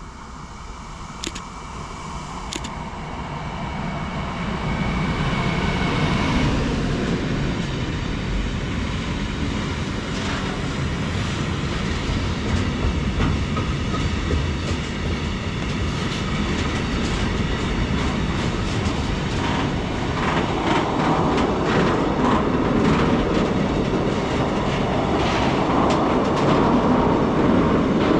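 Freight train passing on the line, growing louder over the first few seconds and then a steady rumble of wagons, with the wheels clicking over rail joints through the second half.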